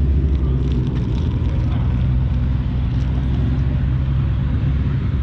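A vehicle engine running at a steady speed, a low even hum that holds its pitch throughout.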